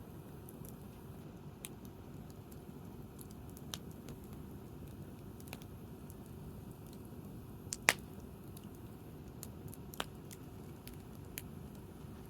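Wood fire crackling: scattered small pops and snaps over a low steady background noise, with one loud, sharp pop about eight seconds in and another clear snap about two seconds later.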